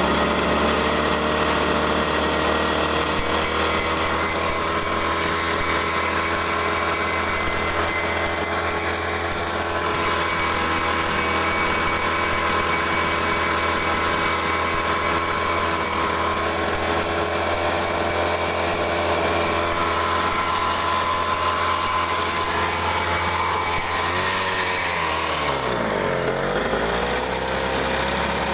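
Small engine on a homemade cart running steadily. Near the end its speed sags briefly and then picks back up.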